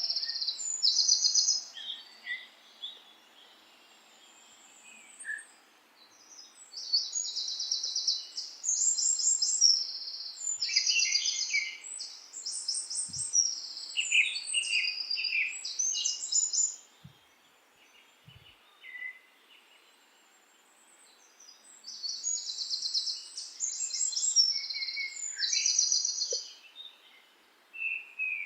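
Songbirds singing in bouts of short, rapid trilled phrases, several in quick succession, with pauses between the bouts, over a faint steady background hiss.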